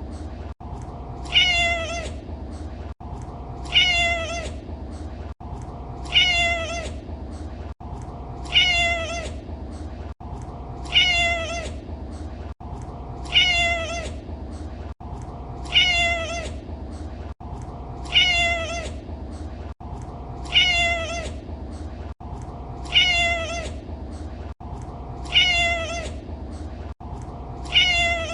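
Domestic cat meowing, the same short meow repeated identically about every two and a half seconds as a loop, over a steady low hum.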